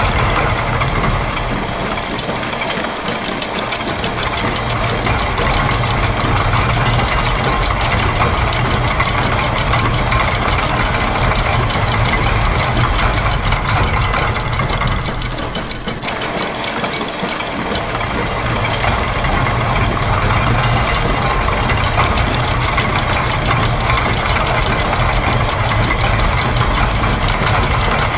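Dense, continuous mix of looped factory machine noises, a steady mechanical clatter over a low engine-like rumble that thins out twice, a few seconds in and about halfway through.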